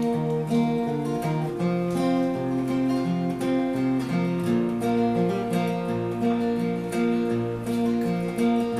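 Acoustic guitar playing an instrumental passage of the song, strummed chords over a moving bass line.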